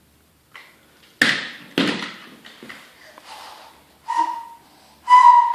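Two sharp knocks about half a second apart, then two short, steady high-pitched tones about a second apart.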